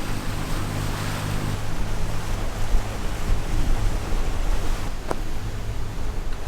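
Wind on the microphone and water rushing past a boat under way, over a low steady hum.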